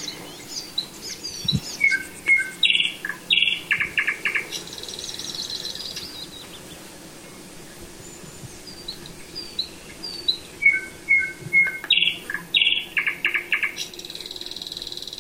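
Songbird singing: a varied phrase of high whistled notes, then loud repeated notes, then a high trill, given twice about nine seconds apart.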